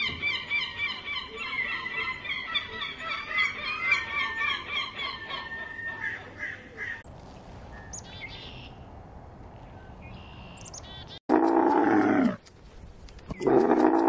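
Rockhopper penguins calling in a rapid, chattering series. After a cut come a few faint, brief high chirps from a chipmunk. Near the end a dromedary camel gives two loud, long calls about a second apart.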